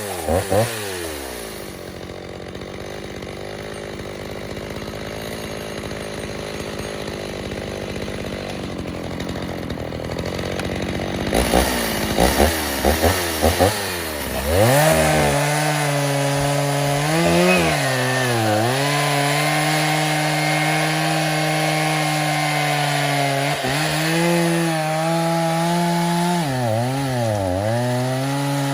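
Stihl 029 two-stroke chainsaw, rebuilt with a 45 mm piston, dropping to idle at the start and idling for about ten seconds. Near the middle it is blipped several times, then held at full throttle, the pitch sagging and recovering several times as the chain loads up in the wood.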